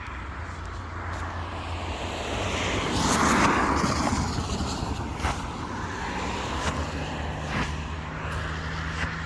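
A road vehicle passing by: its noise swells to a peak about three to four seconds in and then fades, over a steady low hum.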